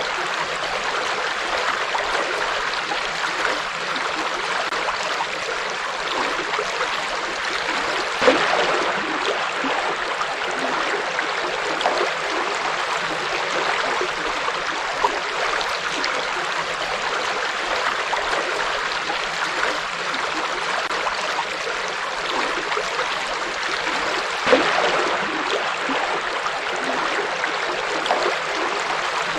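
Forest river flowing steadily: a continuous rush of water with small splashes and gurgles, swelling briefly louder twice, about a quarter of the way through and again later on.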